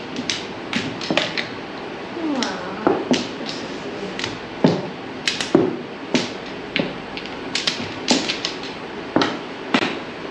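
Mahjong tiles clacking sharply on the table as they are drawn and played, at irregular intervals of roughly one or two a second.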